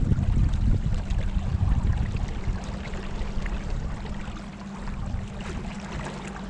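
Steady noise of river water moving past a small boat, under a low rumble that weakens after about four seconds.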